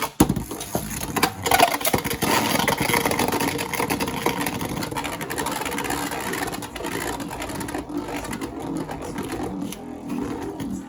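Two Beyblade Burst tops, Siege Excalibur and Tornado Wyvern, snap into a plastic stadium at launch, then spin and grind against each other and the stadium floor in a continuous rattling whir that eases off slightly toward the end.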